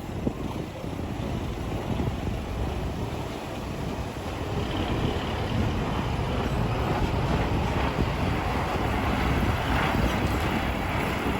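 Ten-wheel dump truck running on a dirt haul road, its engine and tyres growing gradually louder as it comes closer, with wind buffeting the microphone.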